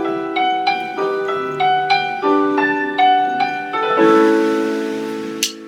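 Piano intro of a pop ballad: struck chords held under a melody of single notes, then a sharp percussive click near the end.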